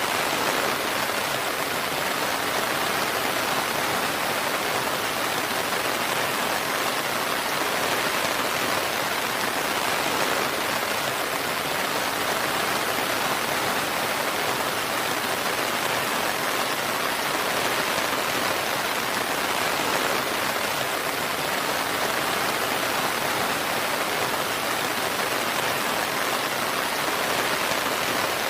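Steady, even rain falling on a surface, without thunder or distinct drops standing out.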